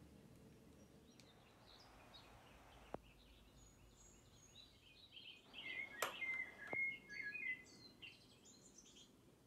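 Faint chirping of small birds, with a burst of short chirps about halfway through. There are a couple of light clicks, one about three seconds in and more during the chirping.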